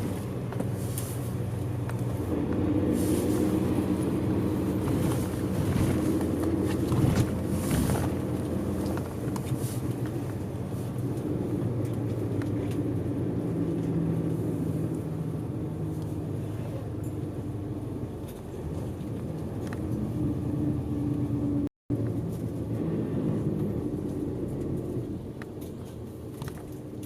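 A route bus's engine running under way, heard from inside the passenger cabin: a steady low hum with light rattles. There is a brief cut to silence about 22 seconds in.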